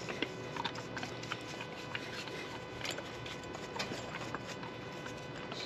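Brush scrubbing sawdust and chain debris off a chainsaw's housing: faint scratching with many small irregular ticks.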